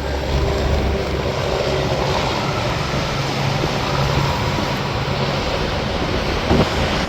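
Interstate highway traffic going by: steady tyre roar with the low drone of truck engines. There is a brief thump near the end.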